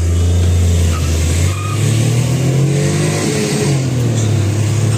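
Maruti Suzuki Wagon R engine revving hard under full-throttle acceleration from a standing start, heard from inside the cabin. The engine note climbs, dips about three seconds in, then climbs again.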